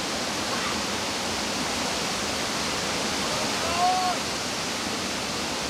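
Waterfall's water pouring and splashing into the pool below: a steady, even rushing hiss.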